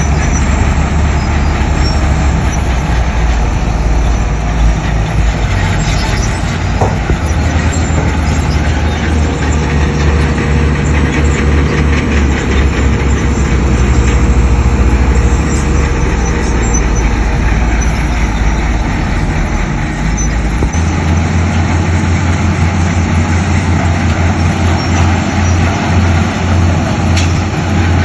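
Heavy diesel earthmoving machinery working: a deep engine rumble runs steadily throughout, with faint high metallic squeals over it. About 21 seconds in, the low engine note changes to a quicker, pulsing beat.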